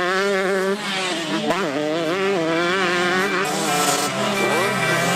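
Motocross motorcycle engines revving hard on the track, the pitch rising and falling again and again with the throttle, with background music underneath.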